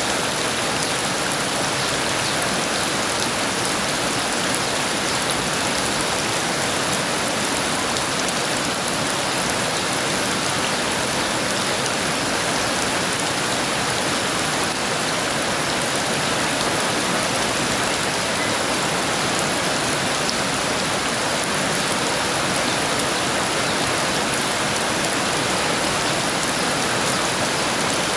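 Heavy rain falling steadily: a dense, even hiss of drops with no let-up and no thunder.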